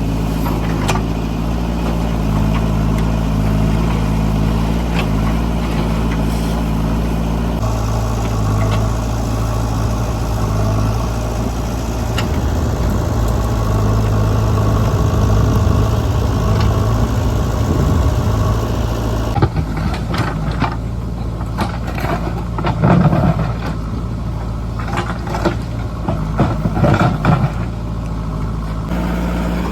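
JCB 3DX backhoe loader's diesel engine running steadily, louder for a stretch in the middle. In the last third come a series of sharp knocks and clanks.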